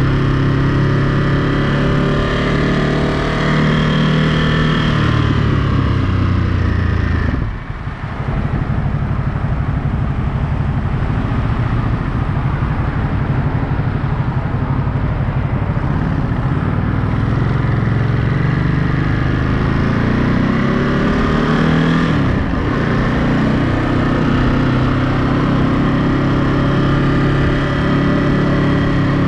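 Ducati Monster 937's L-twin engine under way, pulling up in pitch and dropping sharply twice as gears are shifted, about seven seconds in and again near twenty-two seconds.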